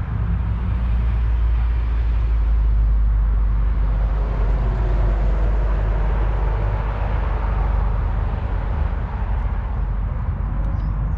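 A car engine running with a steady deep rumble, its noise swelling for a few seconds midway.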